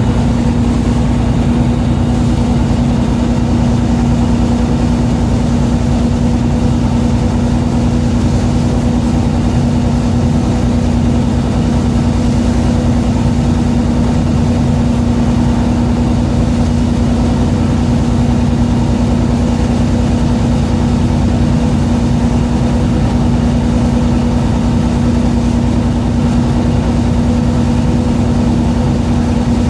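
A fishing boat's engine running steadily on board: a constant droning hum with one steady pitched tone over a low rumble, no change in speed.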